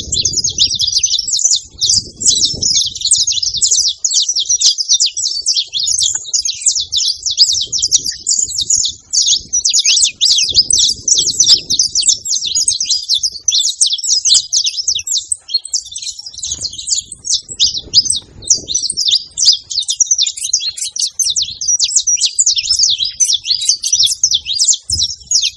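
Saffron finches singing and chirping, many quick overlapping calls running on without a break.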